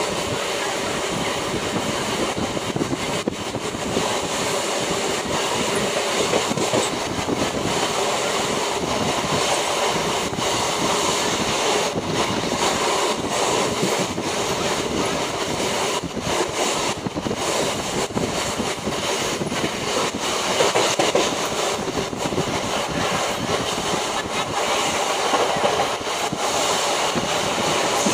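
Local passenger train running at speed, heard at an open coach window: a steady rumble and clatter of wheels over the track with rushing air.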